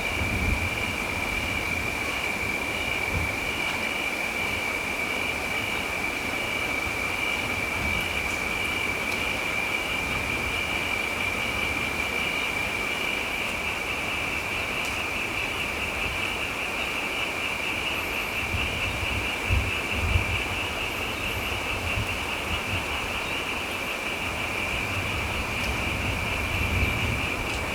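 Steady rain with low rumbles of distant thunder, swelling about two-thirds of the way through and again near the end, over a constant high-pitched whirring tone.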